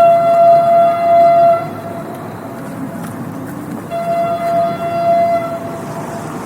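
Train horn giving two steady blasts of about a second and a half each, the second starting about four seconds in, over the continuous rumble of the passing train.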